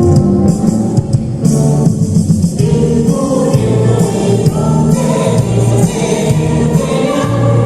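Musical number with a group of voices singing together in chorus over instrumental accompaniment.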